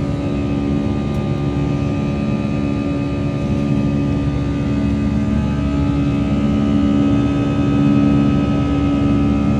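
Jet airliner's engines heard from inside the passenger cabin: a steady roar with a constant hum, swelling slightly about three-quarters of the way through.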